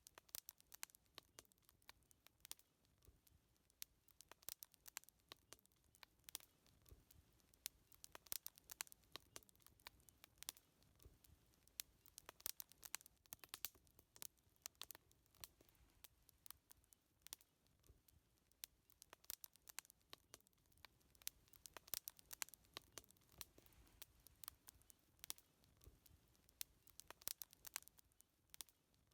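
Wood fire crackling: faint, irregular sharp pops and snaps, several a second, throughout.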